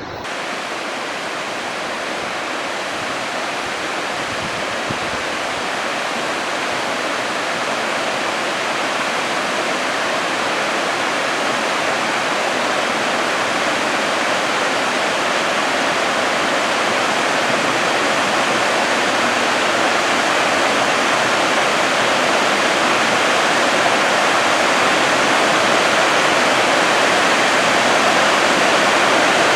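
Steady rush of flowing, falling water, growing gradually louder.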